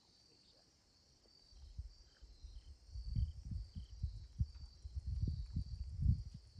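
Insects chirring steadily in a high, even drone. From about a second and a half in, low irregular rumbles and thumps come in over it and are the loudest sound.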